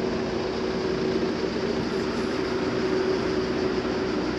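Steady running drone of a moving vehicle: a constant engine hum that holds one pitch, under a haze of road or wind noise.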